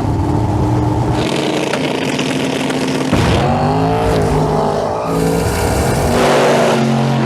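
Two street drag cars racing side by side at full throttle, engines revving hard with pitch rising and dropping through the gears. The engine sound shifts abruptly several times.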